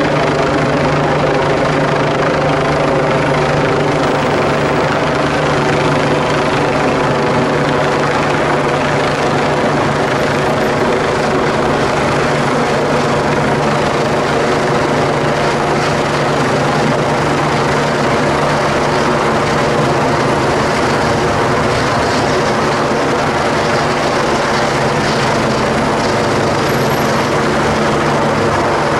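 Helicopter hovering overhead, its rotor and turbine running loud and steady without change.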